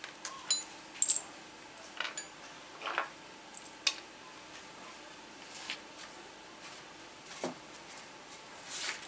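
Hand tools and small metal parts clinking and tapping during engine work: scattered sharp clicks at irregular intervals, a few with a short metallic ring.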